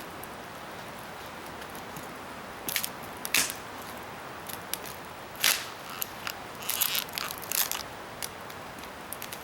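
Wood crackling and snapping in irregular sharp pops, a few at first, then a denser cluster about two-thirds of the way in.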